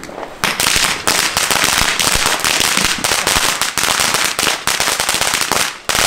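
Firecracker-type firework going off in a loud, rapid string of crackling pops, starting about half a second in, with a brief break just before the end.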